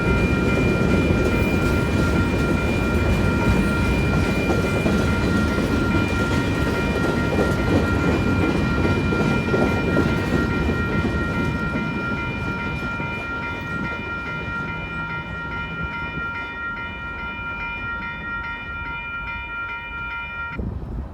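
WCH Type 2 electronic crossing bells ringing in a steady repeating ding over the rumble of a Union Pacific train passing the crossing. The train noise slowly fades, and the bells cut off suddenly near the end as the crossing clears.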